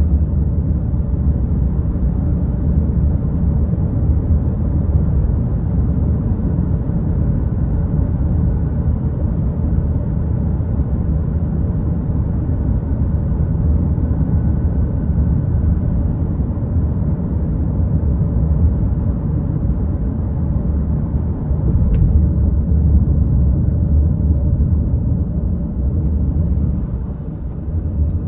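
A car driving, heard from inside: a steady low rumble of road and engine noise. There is a single sharp click about three-quarters of the way through.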